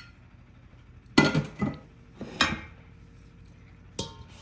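Kitchenware knocking and clinking: a few separate knocks with short ringing, the loudest about a second in, more near two and a half seconds and near the end.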